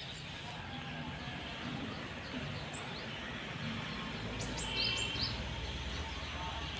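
A few small birds chirping over steady background noise, the clearest chirps about four and a half to five seconds in, with a low rumble rising in the background during the second half.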